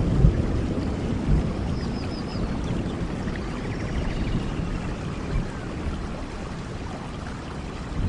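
Steady rain in a rainforest: a dense, even hiss of falling rain with a heavy low rumble underneath, and a quick run of high chirps about two seconds in.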